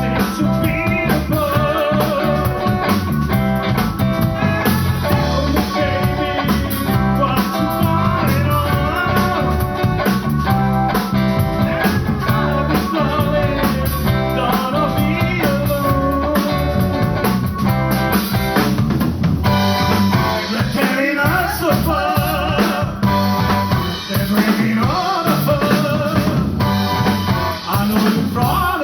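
Live blues band playing a number on drum kit and guitar, with melodic lines bending in pitch.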